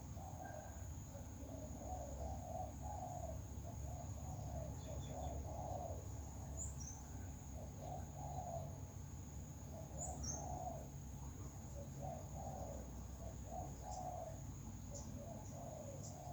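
Birds calling: a steady string of short, low warbling calls, with a few sharp high chirps about a third and two-thirds of the way in. Under them runs a steady high-pitched whine and a low rumble.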